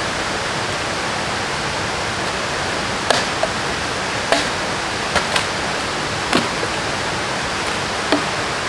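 Steady rushing of water, as from a stream or river, with six short, sharp cracks or knocks scattered through the second half.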